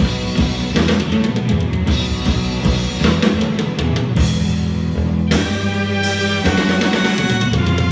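Instrumental passage of rock music: a drum kit playing steady strikes under guitar, with sustained chords coming in more strongly about five seconds in.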